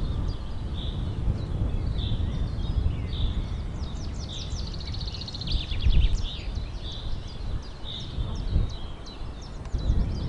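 Birds chirping and calling, one call repeating about once a second with a fast trill in the middle, over a steady low rumble.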